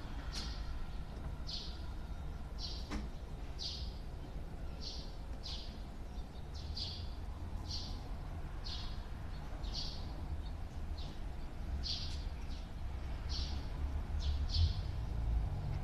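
A bird chirping over and over: short high chirps about once a second, some in quick pairs, over a steady low rumble.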